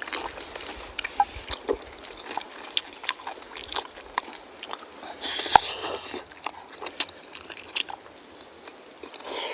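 Someone eating jjajang noodles up close: chewing with scattered wet mouth clicks, and a louder rush of noise about five seconds in.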